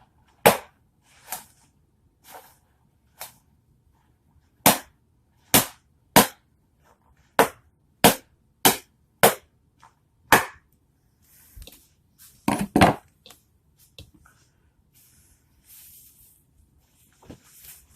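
Yellow octopus balloon being popped: about a dozen sharp pops at irregular intervals, with a quick cluster of several near the end, followed by softer scratchy noise.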